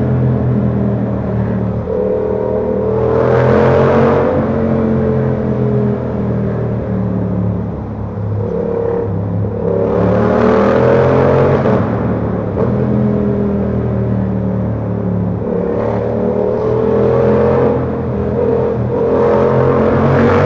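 Yamaha R7's parallel-twin engine through a Ko Lightning aftermarket exhaust, heard on the move: the engine note climbs in pitch in several pulls under acceleration and settles back between them. A rushing hiss swells with each pull.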